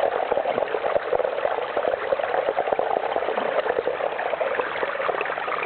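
Water running steadily down a small garden stream and waterfall, with a constant patter of small splashes.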